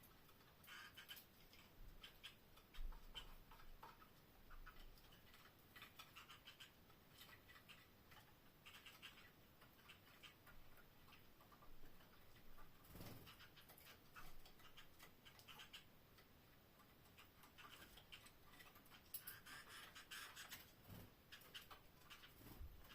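Faint, irregular small clicks and scratches from canaries moving about their cage, with no song.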